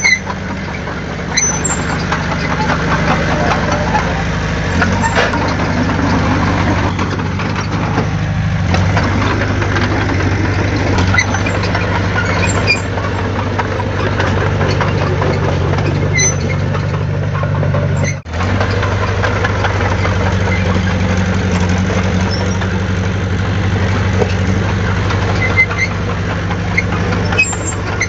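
Heavy diesel earthmoving machinery running steadily, with faint high clanks and squeaks over the engine and a brief break in the sound about two-thirds of the way through.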